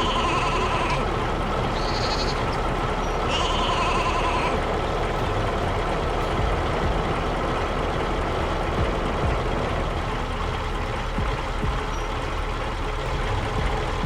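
Steady tractor engine rumble, with sheep bleating twice in the first few seconds: once at the start and again about three and a half seconds in.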